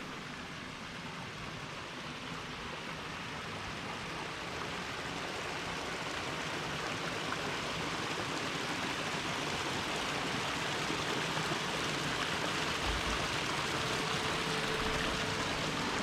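Water from newly built cascading boulder waterfalls splashing into a garden pond, a steady rush that grows gradually louder.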